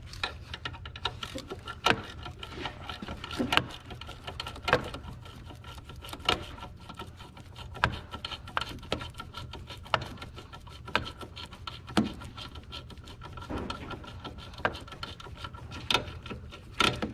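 Hand tools clicking and clinking on metal, in sharp irregular knocks about once a second with smaller ticks between, as bolts are fitted back in during alternator reassembly.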